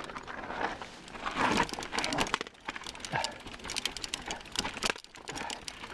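E-mountain bike rattling and clicking as it rolls slowly down a steep, rough dirt trail, with a dense, irregular run of small knocks and a constant noisy rush of tyres on dirt.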